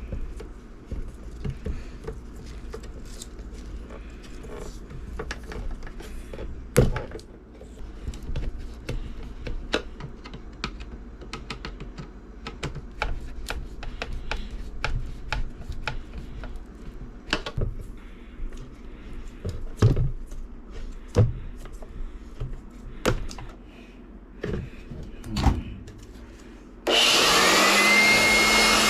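Scattered clicks and knocks of hands and tools on an electric blower, then near the end the blower's motor switches on, spins up with a rising whine and settles into steady running, a test run after the repair.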